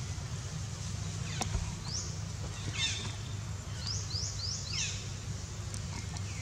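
Birds chirping: scattered short rising chirps, with a quick run of four about four seconds in, and a few calls falling in pitch, over a steady low hum.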